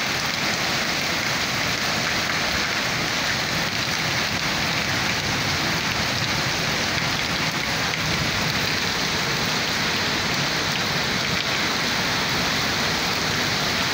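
Monsoon rain falling steadily on concrete ground and buildings: an even, unbroken hiss with no let-up.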